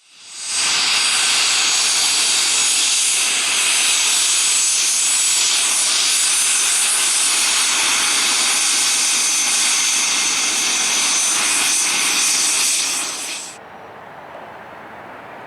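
Cessna Citation Mustang's twin turbofan engines running loud, a steady jet rush with a high turbine whine on top. It fades in at the start and cuts off abruptly near the end. A much quieter engine sound with a faint rising whine follows.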